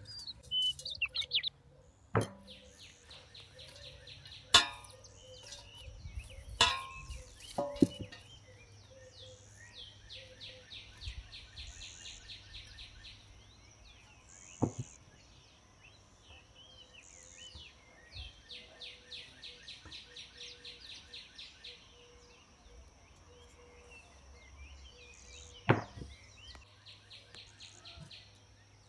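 Outdoor birdsong: a songbird repeating fast, high trills several times, over a thin steady high tone, with a few sharp knocks or clicks scattered through.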